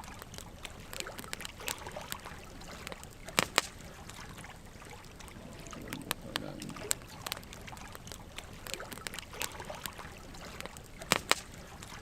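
Wood fire burning, with irregular crackles and sharp pops from the logs over a steady hiss of flame. Two louder pairs of pops come about three and a half seconds in and again near the end.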